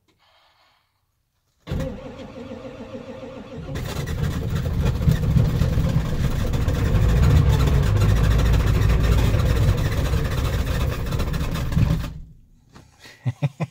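Ford 7.3 Powerstroke V8 diesel cranking over on its starter in bitter cold. It starts about two seconds in, grows louder after a couple of seconds, and stops after about ten seconds without the engine catching. This is a cold-start failure: the oil is thick with cold, and the worn engine has a couple of low-compression cylinders. A short run of quick ticks follows near the end.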